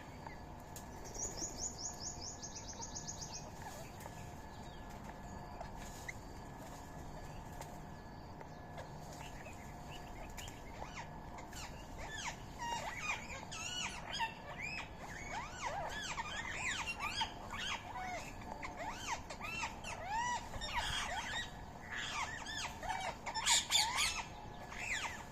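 A quick high trill early on, then many birds chirping and calling over one another, growing busier and louder toward the end.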